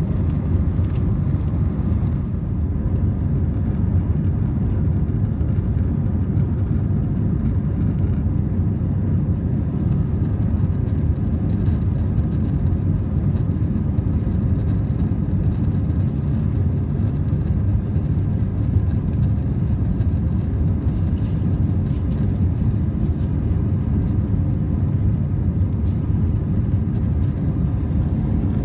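Steady low rumble of a jet airliner's cabin in flight: the engines and the airflow past the fuselage.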